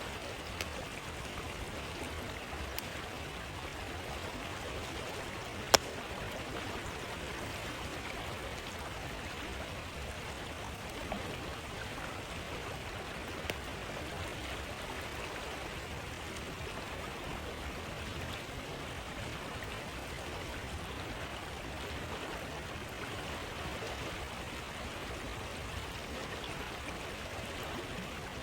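A stream flowing steadily, with a few sharp campfire crackles and pops now and then; the loudest pop comes about six seconds in.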